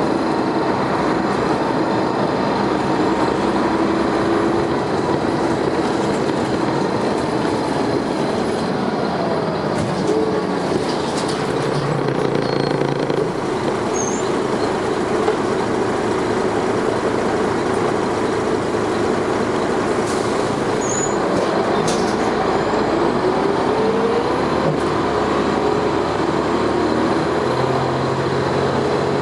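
Dennis Arrow double-decker bus heard from on board under way: the diesel engine thrashing hard under load, its pitch rising as the bus pulls away and dropping at changes by the ZF automatic gearbox.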